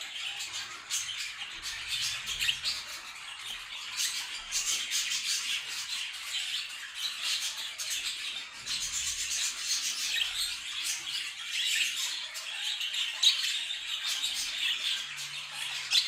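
Budgerigars chattering and squawking, a continuous busy stream of short, high calls.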